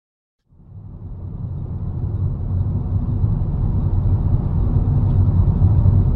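Steady low rumble of a car driving, as picked up by a dashcam. It fades in after about half a second of silence and builds over the next couple of seconds.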